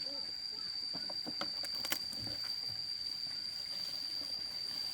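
Steady high-pitched insect trill that never breaks, with a few light clicks and rustles.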